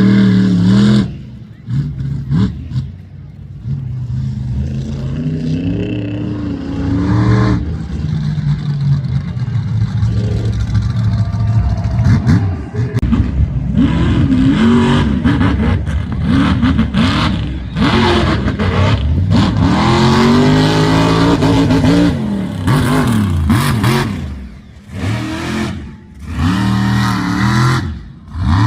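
Monster truck's supercharged V8 engine revving hard, the pitch sweeping up and down again and again, with short lulls between bursts of throttle.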